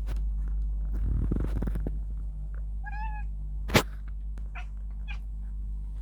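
A domestic cat gives one short, high call with a wavering pitch about halfway through: the noise he makes at the sight of a bird. A single sharp click follows just after.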